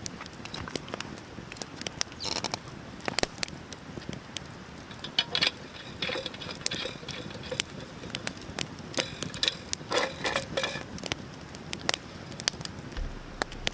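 Wood fire crackling, with many sharp irregular pops and a few denser bursts of crackle.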